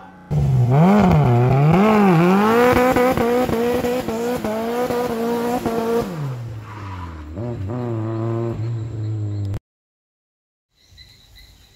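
Turbocharged 4A-GE 20-valve engine of a 1986 Toyota KE70 Corolla wagon revving during a burnout, with tyre squeal over it. The pitch swings up and down twice, then holds high. About six seconds in it drops to a lower, steady run, then cuts off suddenly, leaving faint crickets.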